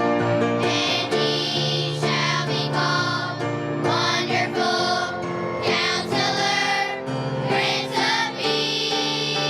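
Choir singing over instrumental accompaniment.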